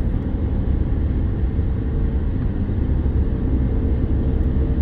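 Steady low rumble of a car driving on the road, heard from inside the car: engine and tyre noise.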